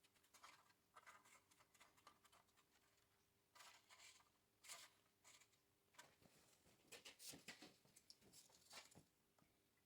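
Near silence with faint, scattered clicks and scrapes of small parts being handled during engine reassembly, over a faint steady hum.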